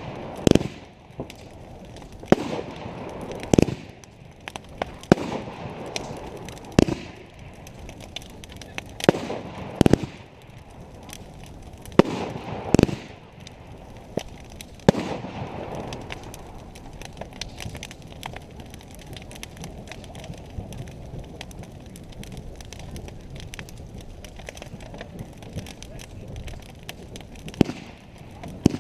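Aerial fireworks bursting in a rapid series of sharp bangs, each followed by a short rumbling echo, roughly one every one to two seconds. About halfway through the bangs stop and a quieter stretch follows, with a few more bangs near the end.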